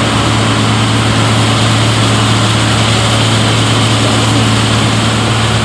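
Ryko Soft Gloss Maxx 5 car wash at work: its side brushes spin against an SUV in water spray, giving a steady hiss over a constant low machine hum.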